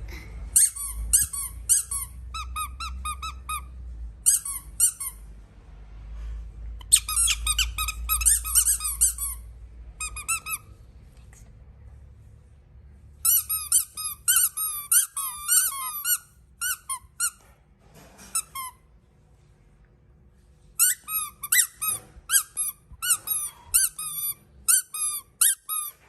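Squeaky baby toys being squeezed, giving quick runs of short high squeaks. The squeaks come in four bursts with pauses of a few seconds between them.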